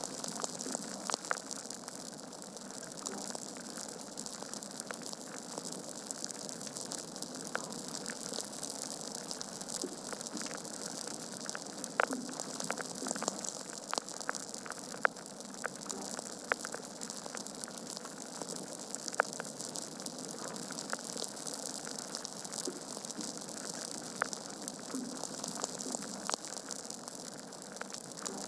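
Wood fire burning in a fireplace: a steady hiss with irregular crackles and sharp pops from the burning logs.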